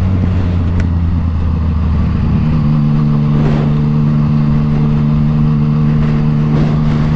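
Yamaha MT-09 motorcycle with an Akrapovic exhaust running at steady revs. About two and a half seconds in, the engine note steps up to a higher pitch and holds there.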